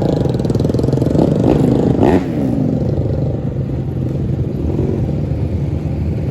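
Dirt bike engine running, its pitch sweeping up and down between about one and two seconds in, then settling into steady running.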